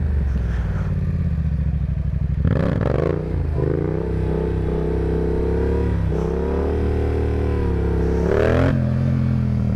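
Sport motorcycle engine running under throttle; the revs climb a little under three seconds in, hold with a brief dip, then ease off near the end.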